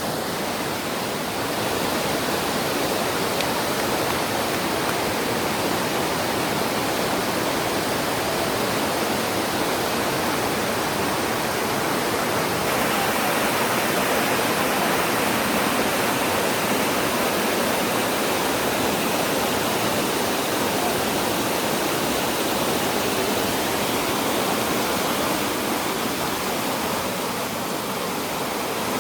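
Waterfall cascading over rocks into a pool: a steady, dense rush of falling water.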